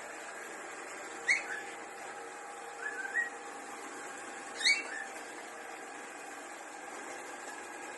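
A parrot gives three short chirping whistles, about a second and a half apart; the first and last are sharp and the loudest, the middle one softer. A steady hum runs under them.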